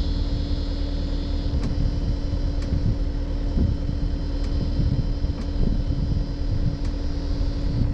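CAT 259D3 skid steer's diesel engine running steadily with the Gyrotrac forestry mulching head attached, giving a constant low rumble and a steady hum.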